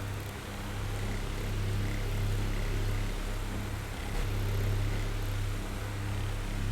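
Oscillating electric fan running, a steady airy whir over a low motor hum that grows louder near the end.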